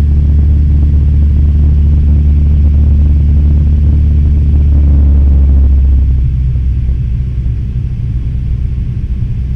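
Cessna 172M Skyhawk's four-cylinder Lycoming engine and propeller droning steadily, as heard in the cockpit in flight. About six seconds in the drone becomes quieter and its low hum weakens.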